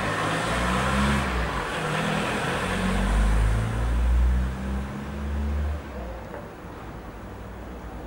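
A motor vehicle's engine running and revving, with the low engine note shifting in steps as it goes and road noise over it; it is loud for about six seconds, then falls away.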